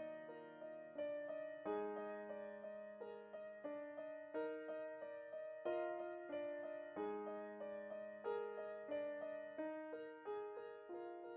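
Background piano music: a gentle, slow melody of sustained notes struck a few at a time.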